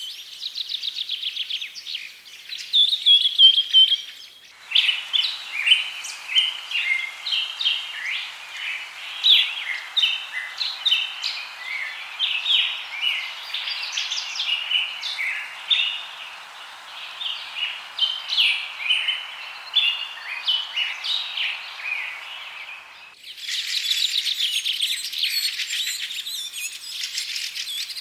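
Several birds chirping and calling at once in quick, overlapping high notes, over a steady hiss. The sound changes abruptly twice, about four seconds in and again near the end, as if different recordings were cut together.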